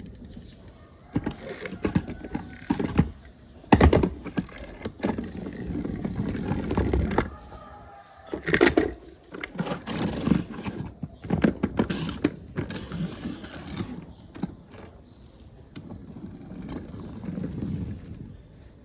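Small toy motorcycles being handled: irregular clicks, knocks and rattles, with a few louder thuds as they are set down or bumped together.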